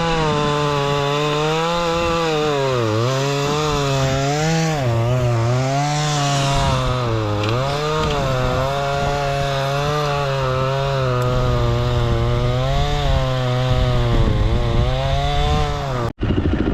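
Chainsaw running at high revs, cutting through a large fallen tree. Its pitch dips and recovers about four times as the chain bogs into the wood.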